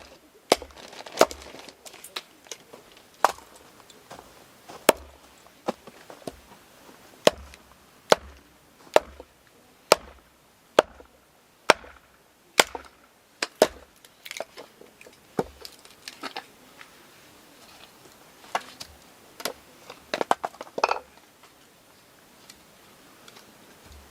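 Firewood being chopped: a series of sharp wooden chops, irregularly spaced about one or two a second, then a quick flurry of lighter knocks shortly before the chopping stops.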